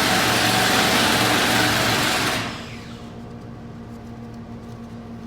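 A power tool running loudly with a steady rushing sound, then cutting off and winding down about two seconds in, leaving a low steady hum.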